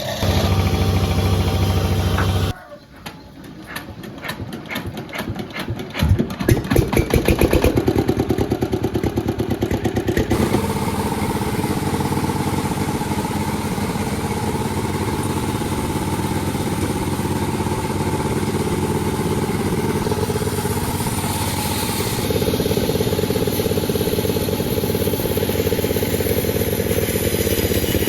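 Two-stroke chainsaw engine. About two and a half seconds in it drops to a low idle with a rapid putter of firing strokes. About six seconds in it revs back up and runs steadily at high speed, as when sawing through a log.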